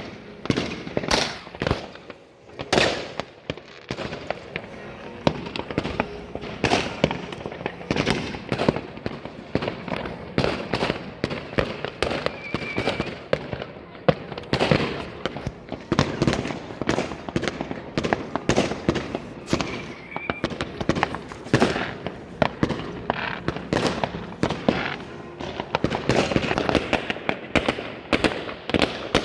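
Many fireworks and firecrackers going off at once: a dense, unbroken run of bangs and crackles, some near and loud, most farther off.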